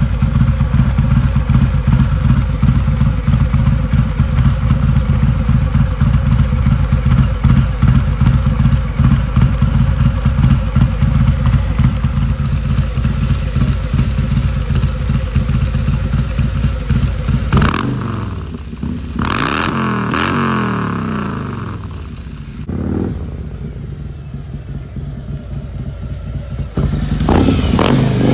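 Tuned car engine with an aftermarket Woods performance camshaft and free-flowing exhaust, running steadily at idle with an even pulse. About two-thirds of the way through it is revved up and down a few times, drops back quieter, then revs up again near the end.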